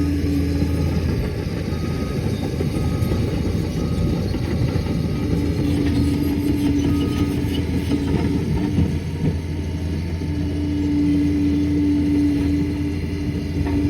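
Liebherr PR 746 crawler dozer's diesel engine running steadily under varying load, with a hum that swells and fades. Faint short beeps sound about once a second during the first half.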